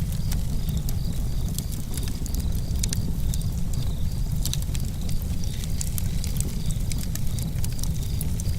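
Campfire crackling: frequent sharp pops and snaps of burning wood at irregular intervals over a steady low rumble.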